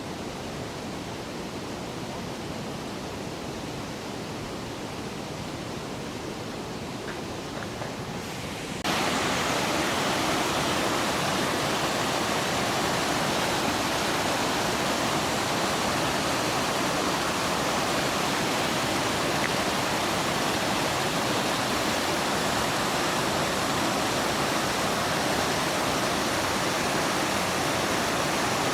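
Steady rush of fast-flowing water. About nine seconds in it abruptly becomes louder and brighter.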